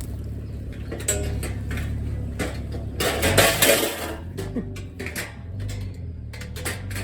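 Thin metal raised-garden-bed panels clanking and rattling as they are handled and slotted together. The loudest clatter comes about three seconds in.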